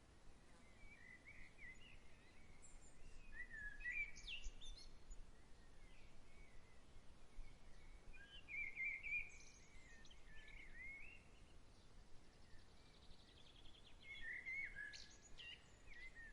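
Songbirds singing groups of short chirping, warbled phrases a few seconds apart, with a brief fast buzzy trill before the last group. Under them runs a faint steady background of gentle outdoor breeze.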